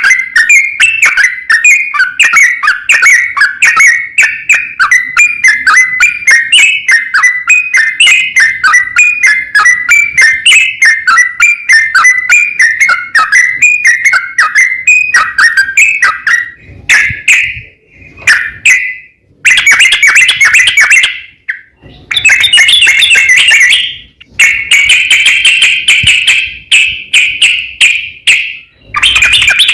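Sooty-headed bulbul (trucukan) chattering song: a long, fast run of loud, repeated whistled notes, breaking after about halfway into separate bursts with brief gaps between them.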